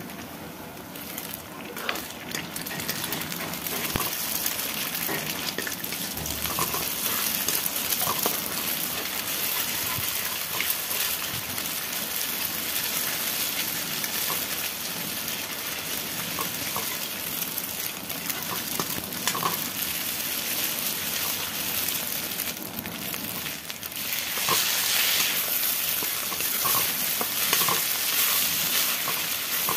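Eggs and chopped onion sizzling in oil in an iron kadai while a steel spoon scrambles them, scraping and tapping against the pan. The sizzle grows louder near the end.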